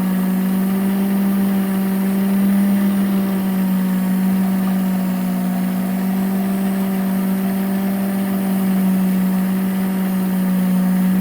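Electric motor and overhead belt drive spinning a rose engine's universal cutting frame, a steady hum, as the cutter takes a pass through a maple bowl.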